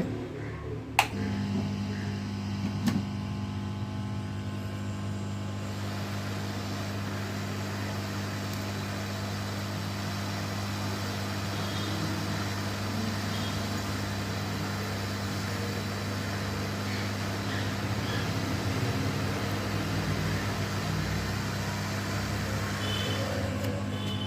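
Hot air rework station blowing steadily on a laptop motherboard, a steady low hum under a rush of air, switched on with a click about a second in.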